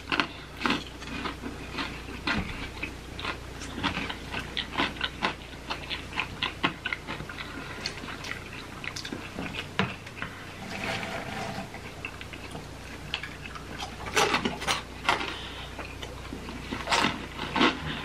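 Close-miked chewing of crunchy, cheese-coated Takis rolled tortilla chips and Flamin' Hot Cheetos: many irregular crisp crunches and wet mouth sounds, with a few louder bites near the end.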